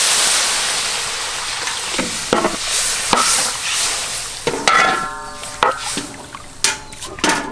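Water poured into a large, very hot wok of frying pork slices sets off a loud sizzle that slowly dies down to a steady bubbling hiss. A metal spatula stirs and scrapes against the wok several times.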